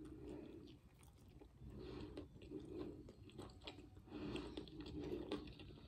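A person chewing a mouthful of breaded fried fish sandwich, with wet mouth sounds and small irregular crunches.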